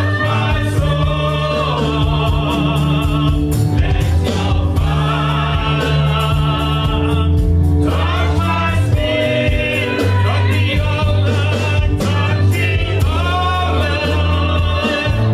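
Gospel worship song: singers with a band holding steady bass notes under them.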